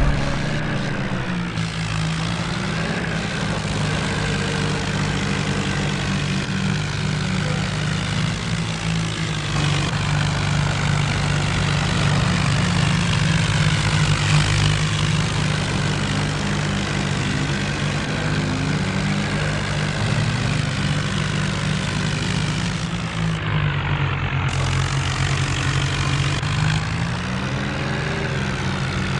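Diesel tractor engine running steadily. Its pitch drops about two seconds in, and again late on before climbing back up.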